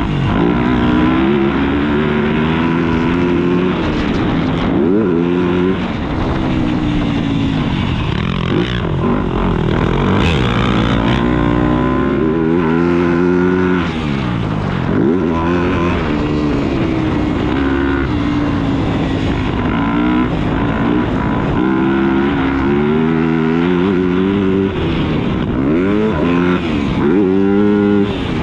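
Motocross dirt bike engine being ridden hard around a track. It revs up through the gears, and the pitch climbs again and again, then falls sharply as the throttle is chopped.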